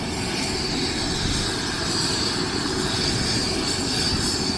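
Twin-engine air-ambulance helicopter running steadily, a high whine held over a dense low noise.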